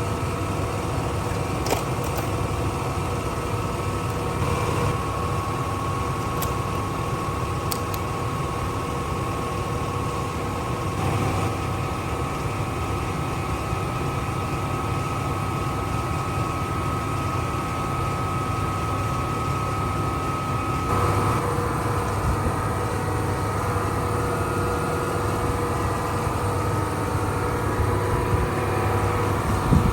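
Pressure washer running steadily while cleaning cylinder heads, a constant engine-like drone whose tone shifts slightly about two-thirds of the way through.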